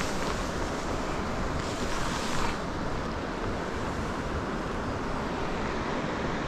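Steady rush of river water, with a brief louder swell of noise about two seconds in.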